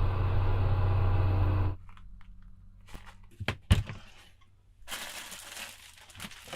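Snowblower engine running with a steady drone that cuts off abruptly just under two seconds in, followed by a few sharp cracks and crunches.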